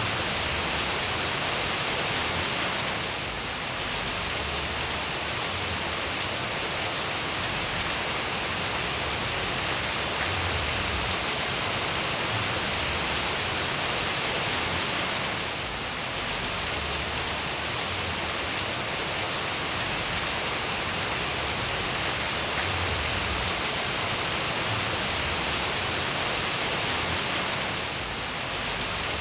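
Steady rain falling, a dense even hiss of drops. The level dips briefly three times at even spacing.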